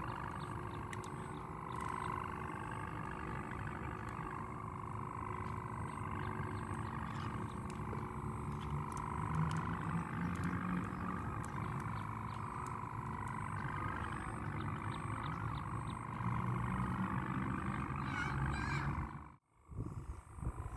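The bow hummer (busur) of a traditional Malay wau kite droning in the wind. Its pitch wavers slowly up and down with the gusts, and there is low wind rumble on the microphone. The sound cuts out abruptly near the end and then resumes.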